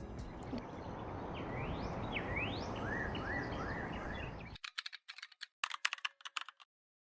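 Steady background noise with a run of short rising chirps over it. About four and a half seconds in the noise cuts out, and a quick patter of sharp clicks follows for about two seconds before the sound stops dead.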